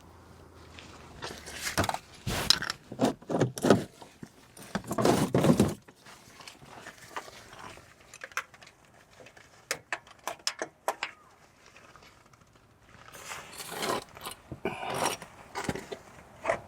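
Tools and metal being handled while an oil filter is worked loose: bursts of scraping and clatter, a run of sharp clicks in the middle, then more scraping near the end.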